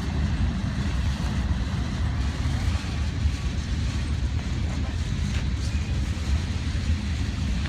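Mixed freight train's cars rolling past, a steady low rumble.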